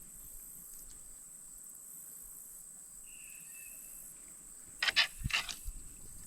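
Steady high-pitched insect chorus, pulsing in its upper part. About five seconds in, a quick cluster of sharp knocks or clacks is the loudest sound.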